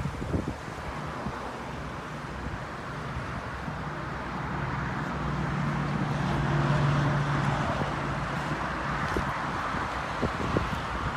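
A car going by outdoors, its engine hum and tyre noise rising to a peak about two-thirds of the way through and then fading, with wind on the microphone.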